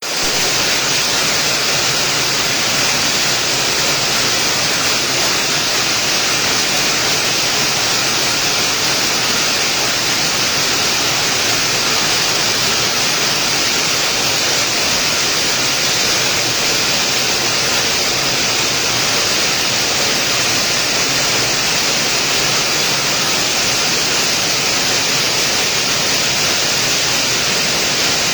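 Rain falling steadily: an even, unbroken hiss that fades in at the very start.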